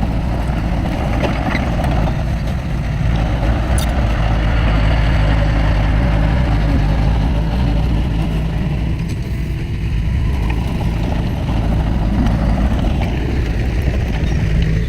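Diesel engine of heavy earthmoving machinery running steadily under load.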